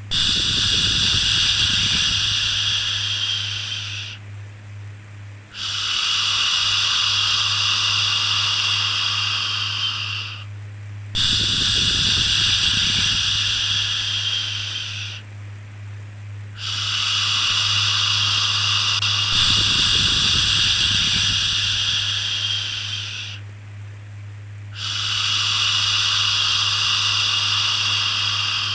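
Long, steady "shhh" shushing sounds for soothing a baby, repeated five times with short pauses of about a second between them, over a constant low hum.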